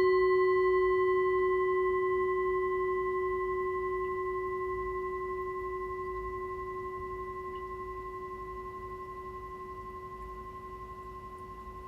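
Singing bowl ringing out after a strike, a low hum with higher overtones that fades slowly with a slight waver.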